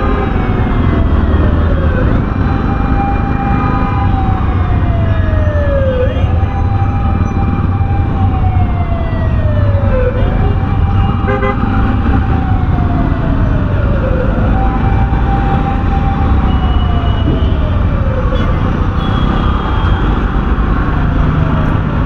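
Ambulance siren wailing ahead in a repeating cycle: the tone jumps up, holds, then slides down, about every four seconds. Underneath runs the steady low rumble of the motorcycle and traffic.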